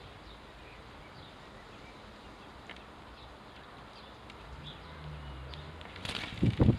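Faint, scattered house sparrow chirps over garden background noise. A low hum comes in about two-thirds through, and near the end a short burst of loud, close thumps with a rustle.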